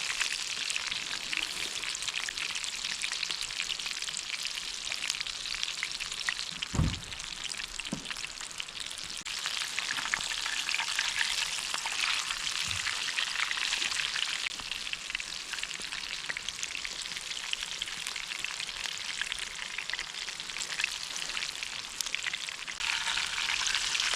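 Rockfish fillets deep frying in a pan of hot oil over a campfire: a steady sizzle throughout, with a low thump about seven seconds in.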